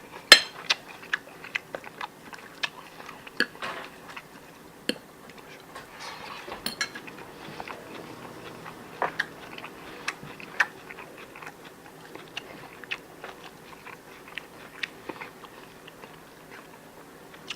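A person eating: chewing and biting, with irregular sharp clicks and taps, the loudest just after the start.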